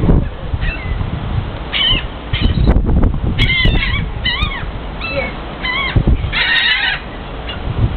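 Seagulls calling in short, arched squawks, again and again, with several calling over one another about six and a half seconds in. A low rumble runs underneath.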